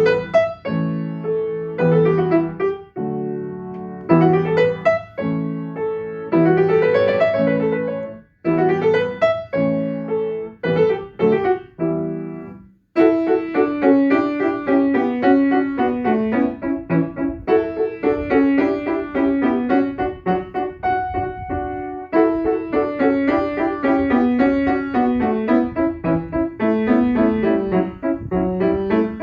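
Solo piano playing a gentle piece in the Dorian mode, phrased in short rising figures; about 13 seconds in it stops for a moment, then continues in a denser, flowing pattern of notes.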